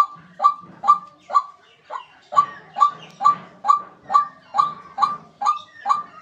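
White-breasted waterhen calling: a short, harsh note repeated steadily a little over twice a second, with a brief pause about two seconds in.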